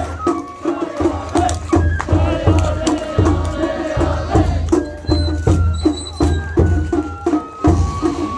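Japanese festival float music (matsuri-bayashi): drums keeping a quick, steady beat under a flute melody, with metallic clanging of a small hand gong.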